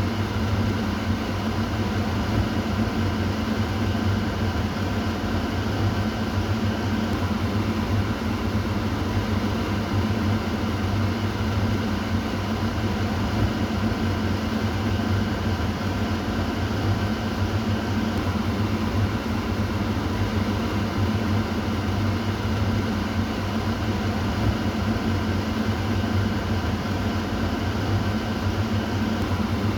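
Kitchen exhaust fan running steadily: an even low hum with a rushing airflow noise over it, unchanging throughout.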